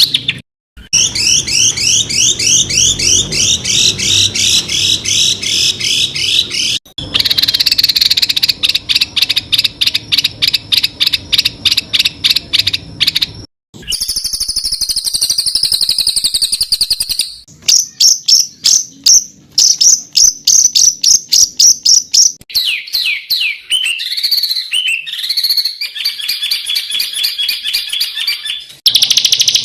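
Songbirds singing fast runs of sharp, high repeated notes, the rapid-fire 'tembakan' phrases used as masteran tutoring song for competition birds. The song comes in several spliced stretches, each breaking off abruptly with a brief gap before the next phrase type starts.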